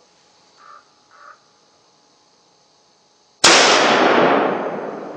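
Two short faint calls, then a single loud gunshot about three and a half seconds in, its report rolling away in a long fading echo: the shot that drops a coyote.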